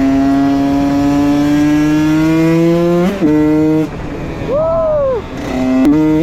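Husqvarna WR 125 two-stroke enduro engine with an HGS exhaust, ridden hard: its pitch climbs steadily for about three seconds, then drops at a gear change. It pulls briefly, goes off the throttle, gives a short rev that rises and falls, and pulls again near the end.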